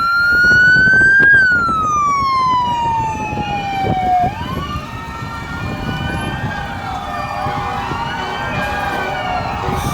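Fire truck sirens wailing as a column of fire engines passes. One siren slowly rises and falls, and after a few seconds several more overlap at different pitches.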